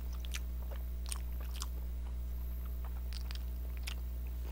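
Close-miked chewing of a soft glutinous rice cake (chapssaltteok), a scattering of faint short mouth clicks, over a steady low electrical hum.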